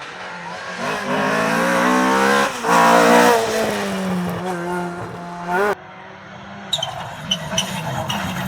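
Rally car engine revving hard under acceleration, its note stepping down at an upshift and then slowly falling away. It cuts off suddenly about six seconds in. After that comes fainter engine noise with a quick string of sharp cracks.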